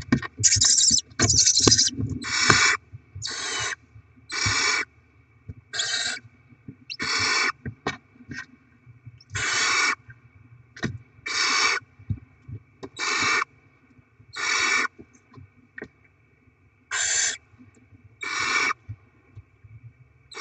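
Barn owl chicks' begging calls: about a dozen harsh, hissing rasps, each about half a second long, repeated every one to two seconds in the nest box. Knocks and scuffling of the birds moving about in the first two seconds.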